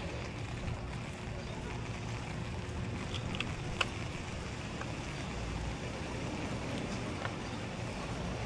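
Steady rain heard while walking, with a few sharp clicks about three and a half seconds in.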